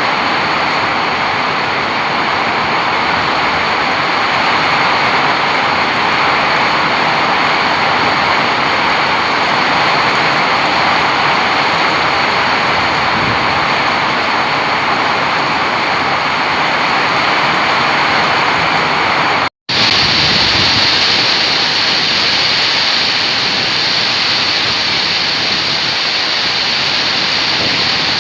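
Heavy rain pouring down, a dense, steady hiss. About two-thirds of the way through it cuts out for an instant and comes back brighter and more hissing.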